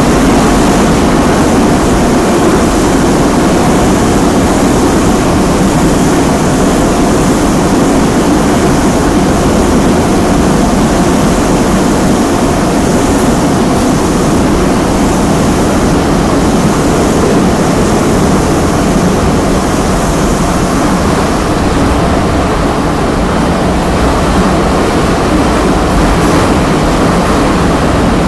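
Kyiv metro train running through the tunnel, heard from inside the car: a loud, steady rumble of wheels on rails.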